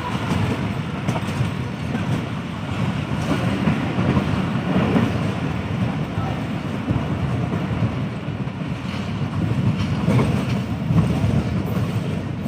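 Passenger train running along the track: a steady rumble of the coaches' wheels on the rails.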